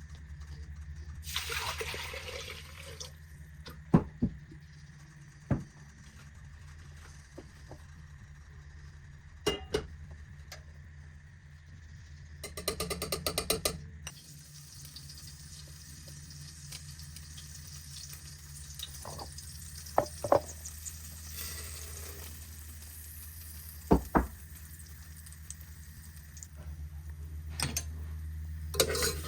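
Kitchen work sounds over a steady low hum: water running, sharp knocks and clinks of utensils, and a brief fast rattle about halfway through.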